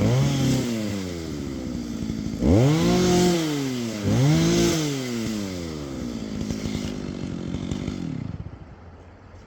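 Two-stroke chainsaw engine revved in three short throttle bursts, each rising in pitch and then falling back. After the last burst the engine winds down and dies away near the end.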